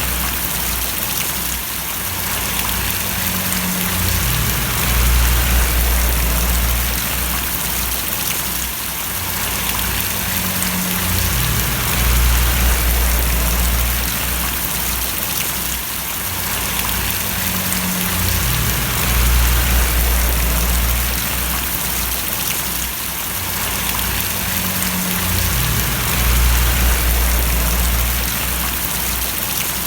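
Steady rain falling, with a low rumble underneath that swells and fades about every seven seconds.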